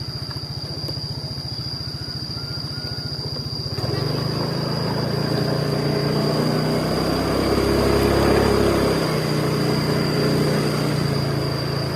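Motorcycle engine running with an even low pulsing, then revving harder and louder from about four seconds in, loudest a little past the middle before easing off again.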